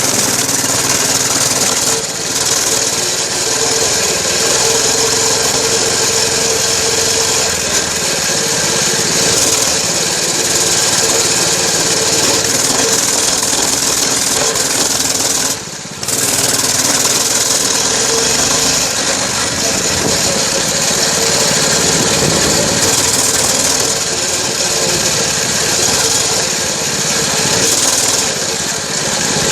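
Dirt bike engine running while the bike is ridden, under heavy wind noise on the microphone. The sound dips briefly about halfway through.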